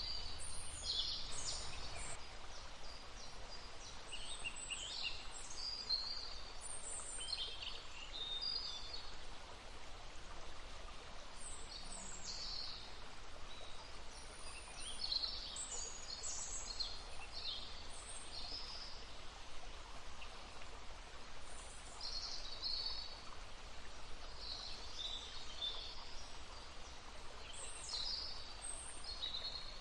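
Songbirds chirping and trilling in short bursts over the steady babble of a brook.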